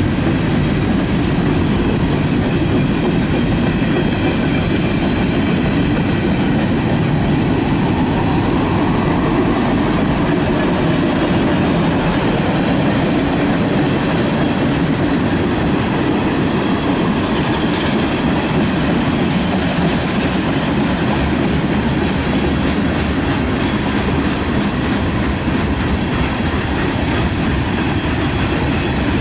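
Freight cars, covered hoppers and tank cars, rolling past close by: a steady rumble of steel wheels on rail with rhythmic clickety-clack over the rail joints. The clicking grows sharper and more distinct from a little past the middle.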